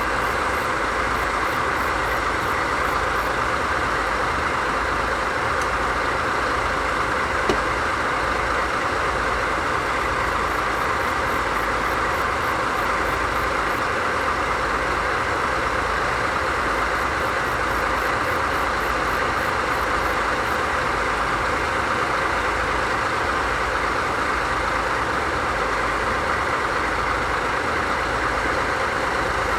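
DD51 diesel-hydraulic locomotive's diesel engines idling steadily, with a single small click about seven and a half seconds in.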